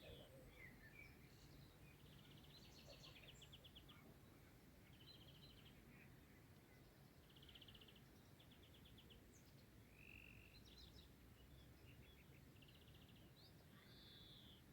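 Faint birdsong from several birds: short chirps and quick rattling trills, repeated every second or so, over a faint steady low hum.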